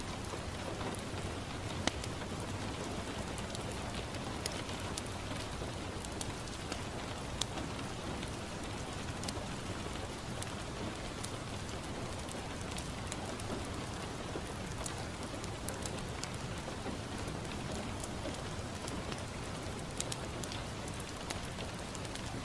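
Steady rain falling on a window, with scattered sharp crackles and pops from a wood fire in a fireplace.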